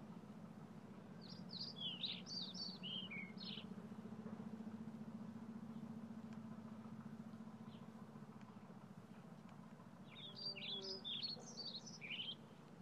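A songbird singing two short phrases of quick, varied high notes, the second about eight seconds after the first, over a steady low background hum.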